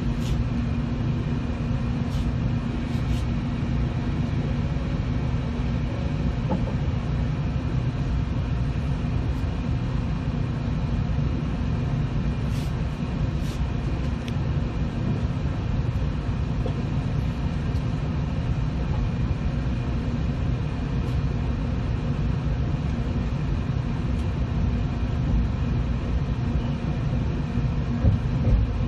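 Steady low hum and rumble inside a 700-series Shinkansen car standing at a station, with a few faint clicks. Near the end the train starts to pull away.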